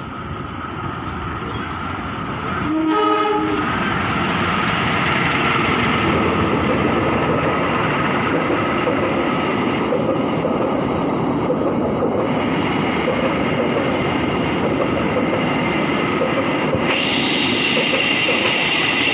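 Train sounding a short horn blast about three seconds in, then running past close by with a loud, steady rumble of wheels on rails.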